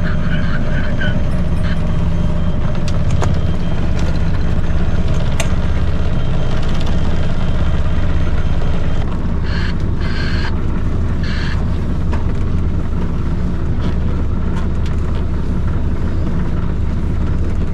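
Sailboat's inboard engine running steadily, a loud low drone that drops slightly in level about nine seconds in.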